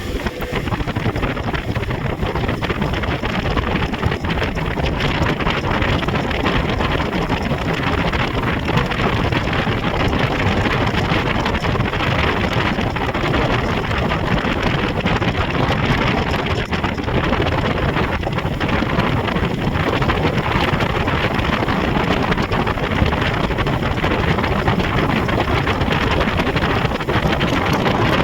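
Speedboat running steadily at speed on a river, its engine and the rushing water blended into a loud, even roar, with wind buffeting the microphone.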